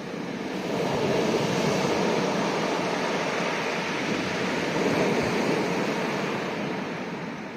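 Sea waves washing onto a rocky shore: one surge builds about a second in, holds, and eases near the end.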